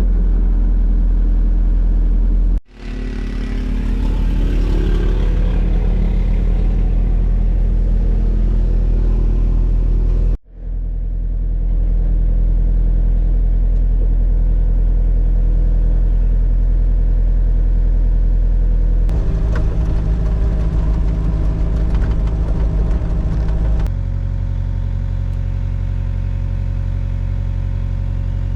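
Kubota U55 mini excavator's diesel engine running steadily, with a low, even hum. It drops out briefly twice, early on and about ten seconds in, and its sound shifts twice in the second half.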